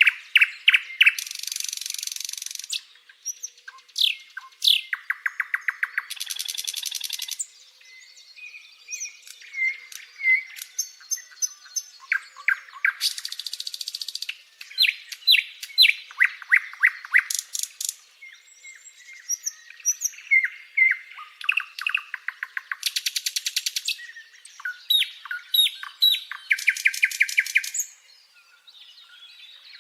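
Birds singing: short, quick downward-sweeping chirps alternating with fast rattling trills every few seconds.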